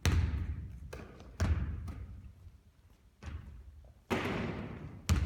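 A basketball bouncing on a gym floor: five heavy thuds at uneven spacing of about a second, each ringing out in the hall's echo.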